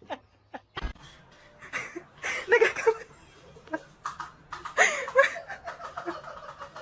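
A person laughing in short uneven bursts, loudest about two and a half and five seconds in, after a brief thump just before the first second.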